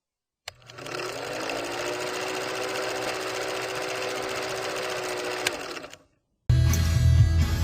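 A steady mechanical whirring rattle with a faint hum, starting and stopping abruptly with clicks, lasts about five seconds. After a short gap, loud rock music with electric guitar starts near the end.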